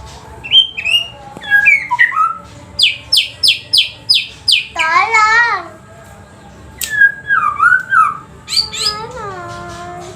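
White-rumped shama (murai batu) singing a varied song of clear whistles and gliding notes, with a quick run of about six sharp notes about three seconds in and a warbling phrase soon after. The song is one used to draw a response from silent shamas.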